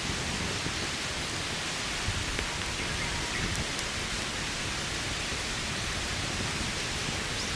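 Steady, even outdoor hiss with a few faint ticks.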